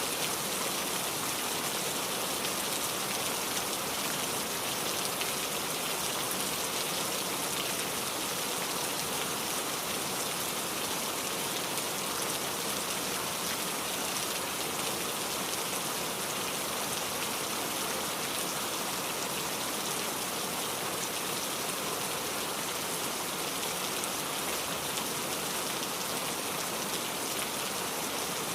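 Steady rain falling on a surface, an even hiss of many drops with no thunder or other breaks.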